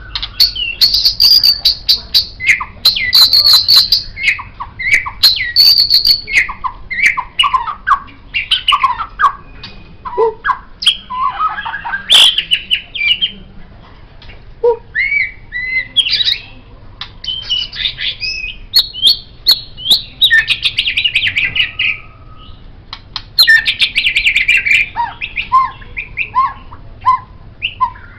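White-rumped shama singing a long, varied song of whistled phrases and rapid trills, broken by sharp clicking notes.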